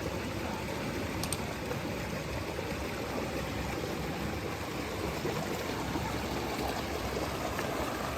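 Steady rush of flowing creek water, an even noise with no break.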